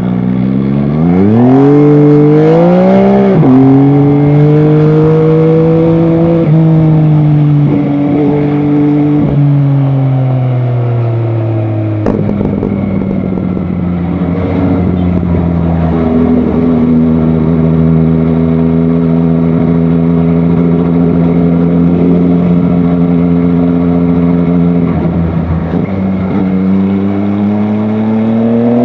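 MV Agusta Dragster 800 RR's three-cylinder engine under way. Revs climb about a second in, drop sharply with a gear change near three seconds, then fall off slowly. The note holds steady through the middle and starts climbing again near the end.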